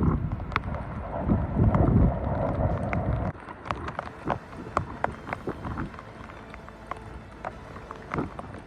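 Strong wind gusting over the microphone, a low rough buffeting that cuts off abruptly about three seconds in. It gives way to a quieter windy background with scattered sharp ticks and taps.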